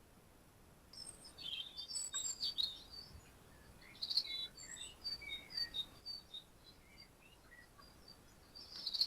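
Small garden birds chirping and singing in short, high-pitched notes, starting about a second in and coming in clusters through the rest of the clip.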